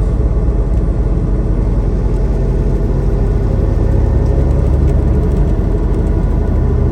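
Steady low drone of a semi truck cruising on the highway, engine and road noise heard from inside the cab.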